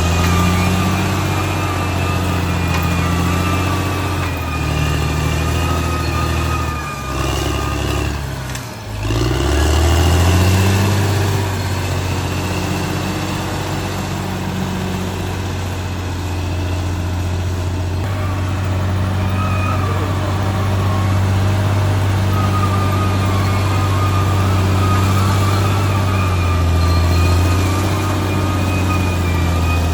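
Caterpillar D6R XL bulldozer's diesel engine running steadily, with a wavering whine above the engine note. About eight seconds in the engine briefly drops in revs, then picks back up.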